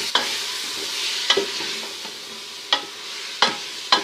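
Chopped spinach sizzling as it is stir-fried in a metal pot, the spoon knocking sharply against the pot several times as it turns the greens. The spinach's water is being cooked off.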